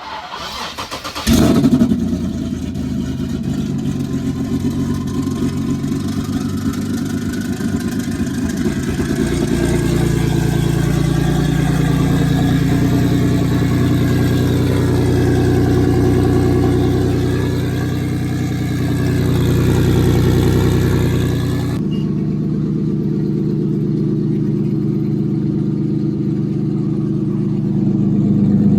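Single-turbo Infiniti Q50's engine starting about a second in, then running steadily. Its sound rises somewhat in the middle and changes abruptly about two thirds of the way through.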